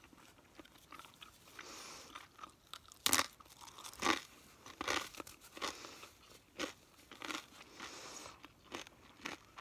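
A person chewing crunchy food close to the microphone, with sharp crunches at uneven intervals of about one a second, the loudest about three and four seconds in.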